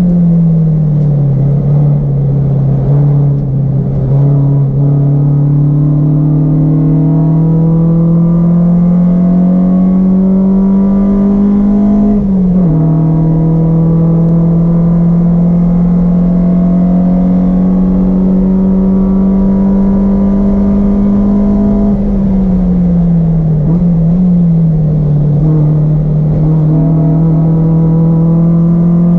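Honda Civic hatchback's four-cylinder engine at high revs on track, its pitch climbing steadily as it pulls through a gear, dropping sharply at an upshift about twelve seconds in, then sliding down as the car slows near the end before climbing again.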